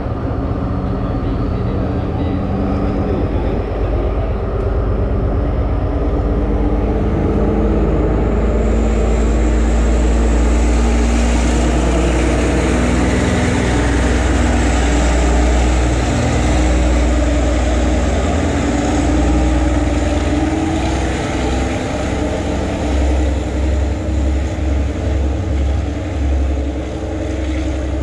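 Sri Lankan diesel multiple unit moving off from the platform. Its diesel engine runs with a deep rumble, and a hiss of wheel and rail noise builds as the power car passes about a third of the way through. Near the end comes a run of rhythmic clunks as the last coaches roll past.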